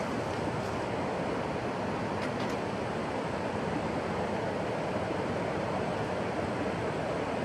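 Steady rushing noise, even and unbroken, with a couple of faint ticks about two seconds in.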